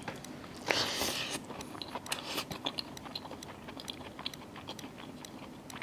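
A person chewing a mouthful of rice and mushroom masala, heard close up through a clip-on microphone as a run of small wet mouth clicks, after a short noisy rush about a second in.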